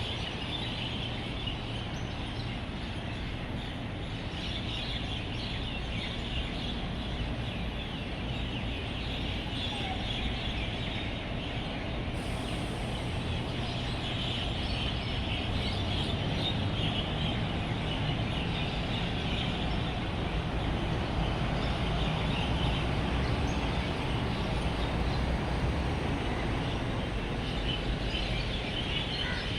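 A dense chorus of many roosting birds chirping and chattering at once, over a steady low rumble of road traffic that grows a little louder about halfway through.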